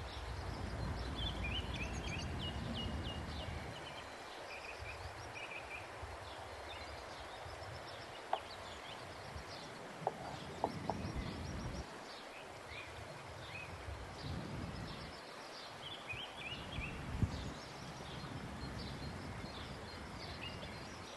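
Small birds chirping off and on throughout, over a low outdoor rumble that swells and fades, with a few light clicks around the middle and one near the end.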